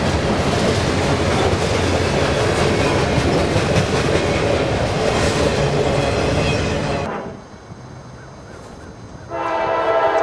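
Freight train passing close: diesel locomotive engine and steel wheels on rail, loud and steady. About seven seconds in it drops away, and near the end a locomotive air horn sounds a steady multi-note chord.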